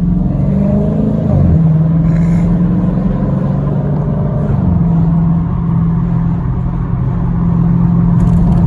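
Straight-piped Dodge Challenger's exhaust droning steadily while driving, with a brief rise and fall in engine pitch about a second in.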